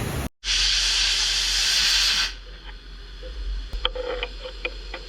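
A loud steady hiss, like a jet of air or spray, that cuts off abruptly about two seconds in, followed by quieter scattered clicks and taps.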